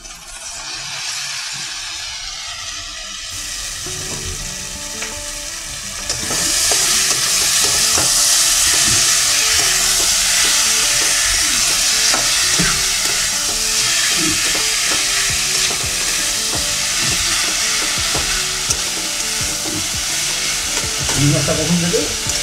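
Chopped elephant yam stems landing in hot oil and spice paste in a metal wok and frying, with a metal spatula stirring and scraping against the pan. The sizzle grows much louder about six seconds in and stays loud.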